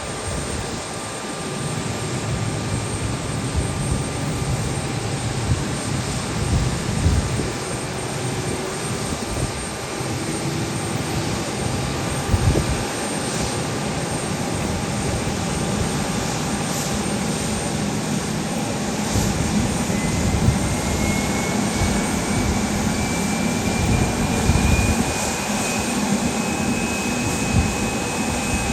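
Airliner engines running, a continuous rumble with a steady whine; a higher tone rises slowly about two-thirds of the way through.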